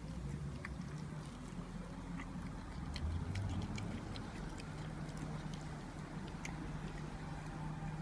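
A cat eating wet food: scattered small, sharp clicks of chewing and licking, over a steady low hum.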